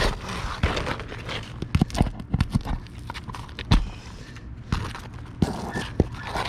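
Irregular knocks and scraping on asphalt shingles as they are pried up to work the roofing nails loose.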